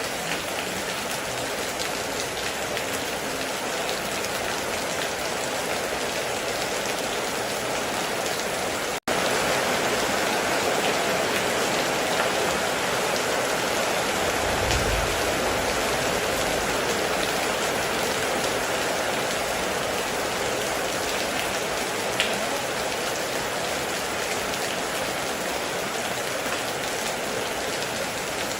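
Heavy rain falling steadily. It cuts out for an instant about a third of the way in and resumes a little louder, with a brief low rumble near the middle and an occasional faint drip click.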